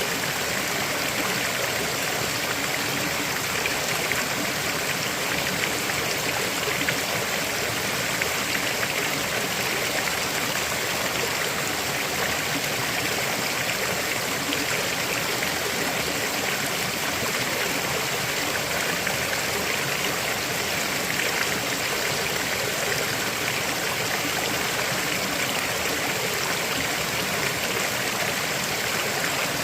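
A river flowing over rocks: a steady, unbroken rushing of water.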